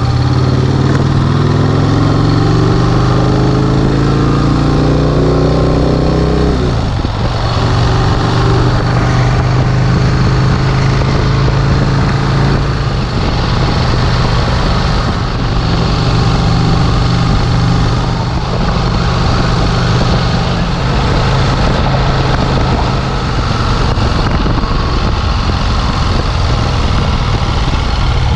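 1951 Vincent Rapide's 998 cc V-twin engine pulling hard, its pitch rising for about six seconds, then dropping suddenly at a gear change and running on steadily under way.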